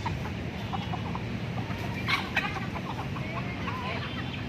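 Chickens clucking, with several short calls overlapping and two sharper, louder ones about two seconds in.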